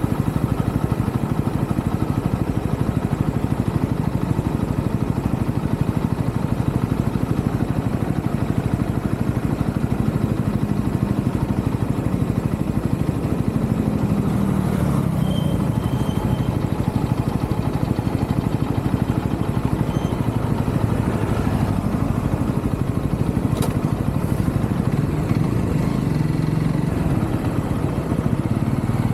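UM Renegade Commando 125 motorcycle engine running steadily under way, heard up close from the handlebars, its pitch shifting briefly a couple of times as the throttle changes.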